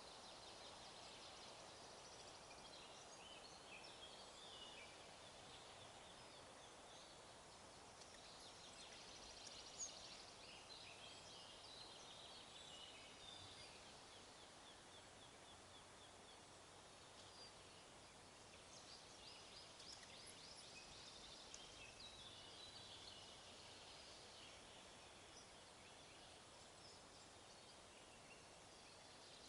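Faint songbirds trilling and chirping in several spells, over a steady faint background hiss of forest ambience.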